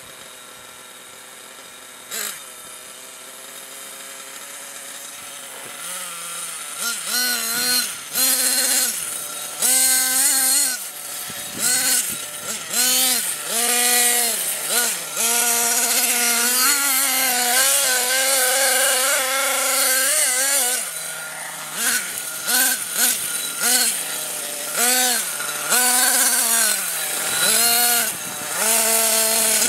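Small two-stroke nitro glow engine of a CEN Genesis GST 7.7 RC monster truck, idling at first with a single knock about two seconds in. From about seven seconds in it is revved again and again in short throttle bursts, its pitch rising and falling with each one.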